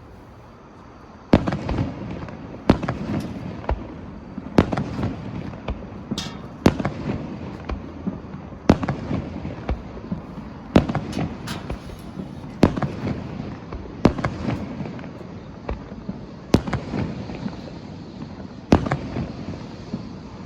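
Aerial firework shells bursting one after another, about a dozen sharp bangs at intervals of one to two seconds, each trailing off in a rumble. The first bang comes about a second in.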